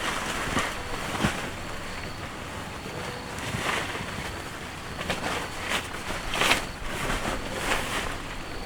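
Steady hiss of rain, with irregular short rustles and knocks over it, the loudest about six and a half seconds in.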